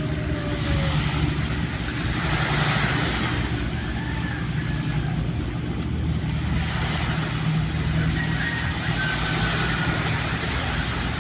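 Steady low drone of ship engines running, with a constant rushing hiss over it.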